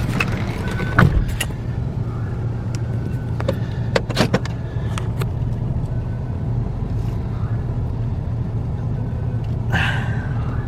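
Car engine running at low speed with a steady low hum. There are a few sharp clicks and knocks about a second in and again around four seconds, and a brief hiss near the end.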